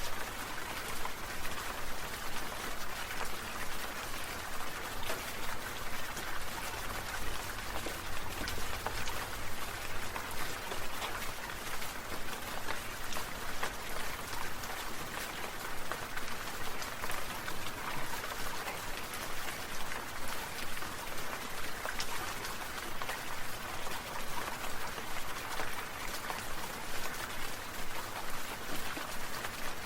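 Sprinkler water spraying and pattering down like rain, a steady hiss with a quick, even pulse about twice a second.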